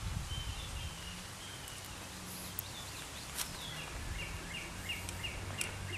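A small bird calling: a thin high note in the first second or so, then a run of short, quick chirps about three a second in the second half, over a low steady background rumble.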